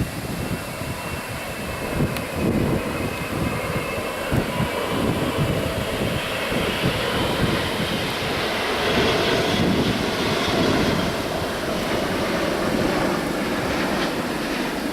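Jet airliner's engines heard as it passes, a steady roar with a faint high whine that swells to its loudest around the middle and eases off near the end, with wind buffeting the microphone.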